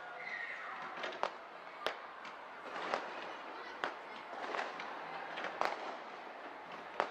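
Fireworks exploding in the air: a sharp bang roughly every second over a steady crackle, with voices in the background.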